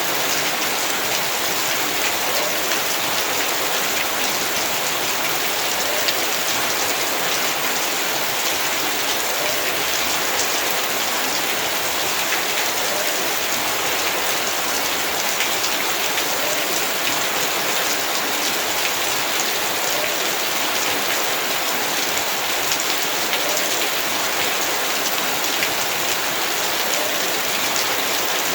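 Heavy rain falling steadily, with a dense patter of drops striking surfaces.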